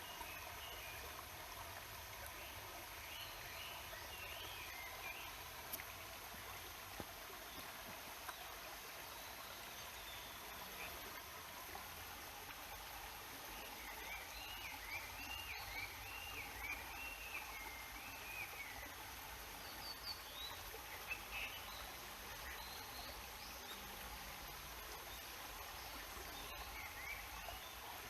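Steady rush of a flowing stream, with small birds singing over it. About halfway through, one bird gives a quick run of repeated rising-and-falling whistled notes; shorter calls come now and then.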